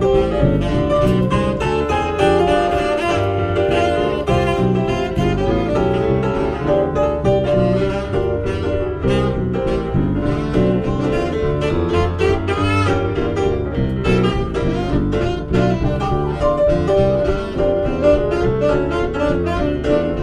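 Band music led by a saxophone, over a bass line and a steady beat.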